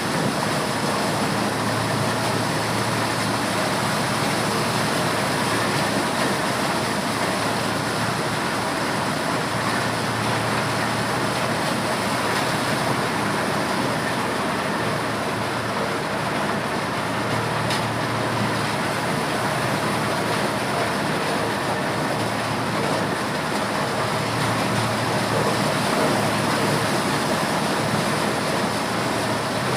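Motorised corn sheller running steadily: a loud, even mechanical noise with a low hum underneath.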